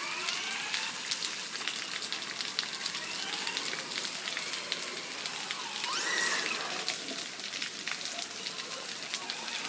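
Heavy rain hissing steadily, with many small raindrop ticks. A faint whine rises near the start and rises and falls again about six seconds in: the Traxxas Slash VXL's brushless motor speeding up and slowing down.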